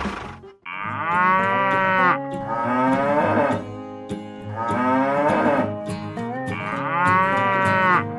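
Cattle mooing: four long calls, each sliding in pitch, over steady background music.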